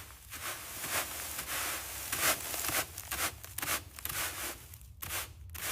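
Irregular scraping and tearing of a stuck, fire-charred part being pried loose from the burnt car, a rough, crackly run of many short strokes.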